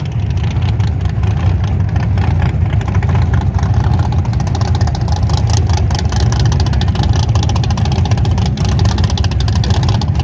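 Drag-racing car engine running loud and steady, a deep rumble that grows a little louder over the first few seconds.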